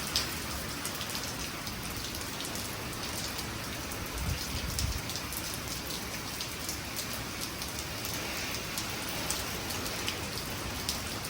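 Hurricane rain falling steadily, with many close drops ticking on surfaces. A brief low rumble about four seconds in.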